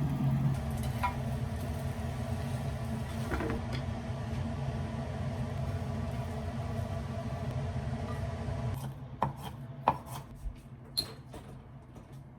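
A steady low mechanical hum that fades out about nine seconds in, followed by a few sharp clicks and knocks.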